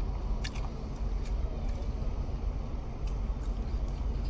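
Steady low vehicle rumble, heard from inside a parked car with its windows down, with a few faint clicks.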